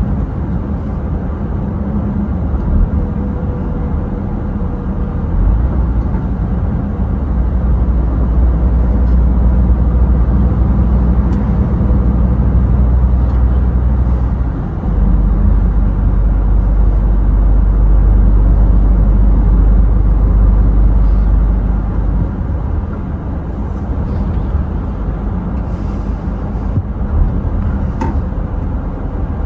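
Scania truck on the move: a steady low drone of engine and road noise. It grows louder about six seconds in, dips briefly around the middle, then eases again later on.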